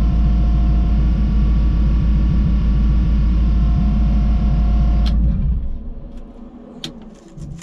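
Twin-turbo Camaro engine idling steadily, then switched off about five seconds in, the sound dying away within half a second; a couple of sharp clicks follow.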